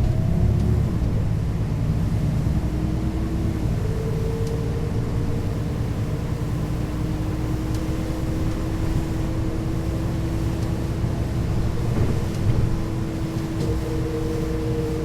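Mercedes-Benz O 530 G Citaro articulated bus running at a steady speed: a continuous low engine and driveline rumble with a steady whine held at nearly constant pitch.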